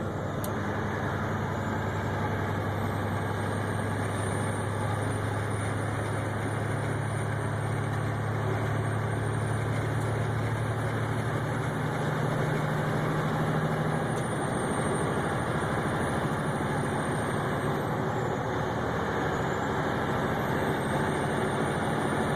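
Steady engine and road drone heard from inside a vehicle's cab while driving, with a low hum and a thin high whine wavering above it.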